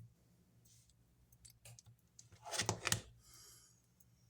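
A quick cluster of small clicks and taps from craft supplies being handled on a desk, about two and a half seconds in, with a few fainter ticks around it.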